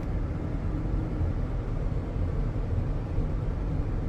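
Steady low rumble of a car being driven slowly, heard from inside the cabin: engine and tyre noise.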